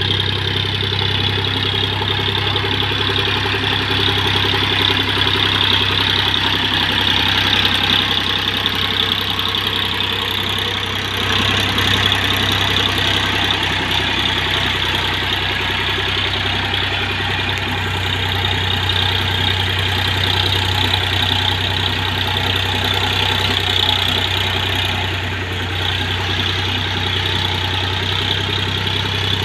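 Massey Ferguson tractor's diesel engine running steadily, with a continuous low hum and a loud, even mechanical clatter.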